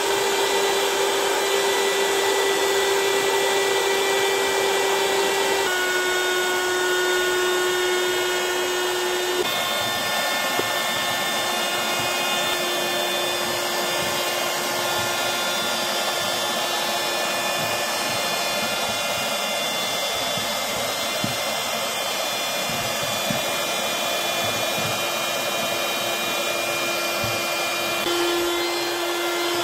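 Battery-powered portable electric air pump running steadily with a motor whine and air rush. Its pitch steps down about six seconds in and again about ten seconds in, then steps back up near the end.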